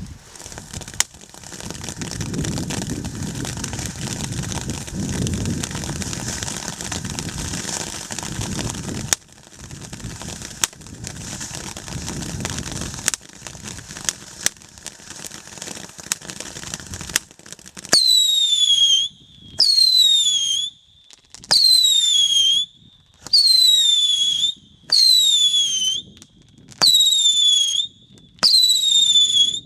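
A 32-shot fireworks cake (Bestiya TB32) firing. First comes about 17 seconds of dense hissing and crackling broken by sharp shot reports. Then seven whistling shots follow, about a second and a half apart, each a loud whistle falling in pitch.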